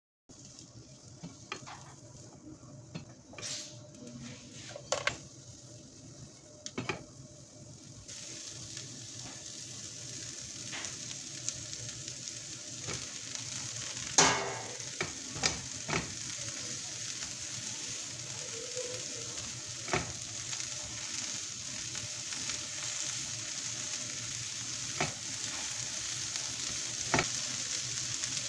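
Vegetables sizzling in a nonstick frying pan as they are stir-fried with a spatula, with scattered knocks and scrapes of the spatula against the pan. The sizzle is faint at first and grows louder and steady about a third of the way in, with a louder clatter about halfway.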